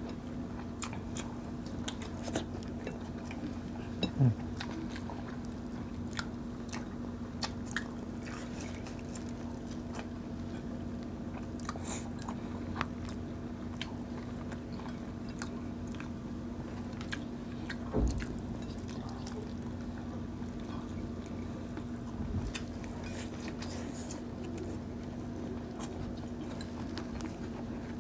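Close-up eating sounds of people chewing and smacking with their mouths, with scattered small wet clicks and a steady low hum underneath. There are two soft thumps, about four seconds in and again around eighteen seconds.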